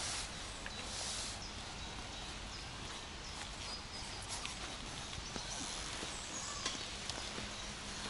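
Outdoor ambience: a steady hiss of background noise with scattered small clicks and taps, most likely from handling tent poles and fabric, and a few faint high chirps.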